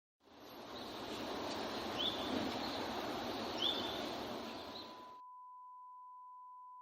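Outdoor ambience, an even hiss with two short bird chirps about two and three and a half seconds in. It cuts off suddenly about five seconds in, leaving a steady pure beep tone.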